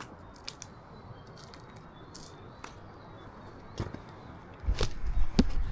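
Footsteps and rustling on a forest trail: scattered light crunches over a steady hiss, then a loud low buffeting on the microphone for about a second near the end.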